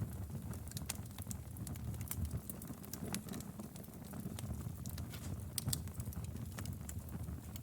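Wood fire burning in a fireplace: a steady low rumble of flames with irregular sharp crackles and pops from the burning firewood, a few louder snaps about three and six seconds in.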